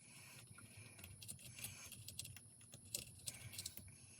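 Faint scattered clicks and light metallic rattles of small chainsaw parts being handled while a carburetor and its linkage are fitted.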